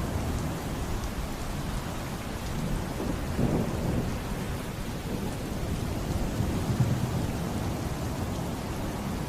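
Heavy rain with low rolling thunder, swelling briefly about three and a half seconds in.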